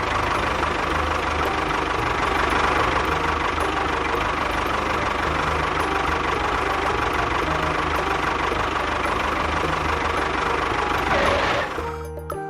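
An engine running steadily, which cuts off near the end.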